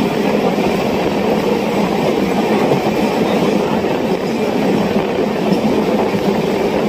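Indian Railways InterCity express train running at speed: the steady loud rumble and rattle of its coaches' wheels on the rails, heard from an open carriage doorway.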